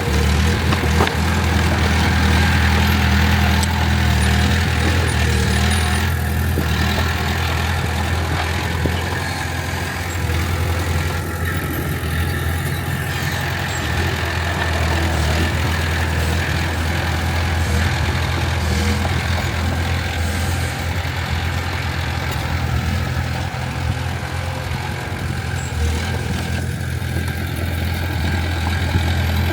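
Crawler bulldozer's diesel engine running steadily with a deep, even drone.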